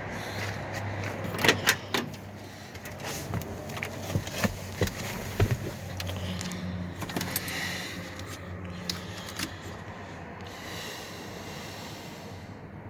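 Scattered clicks and knocks, a few of them sharp and loud, over a low steady hum, with a short spell of hiss near the end.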